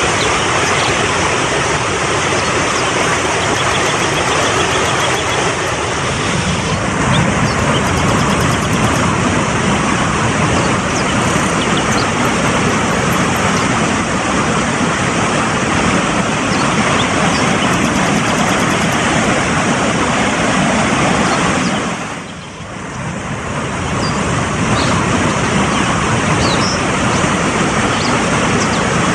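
Fast-flowing mountain stream rushing steadily, with a brief drop in level about twenty-two seconds in.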